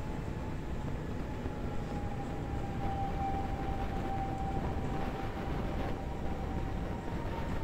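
A train running: a steady low running noise with a held whine that sags slightly in pitch in the middle and then rises again.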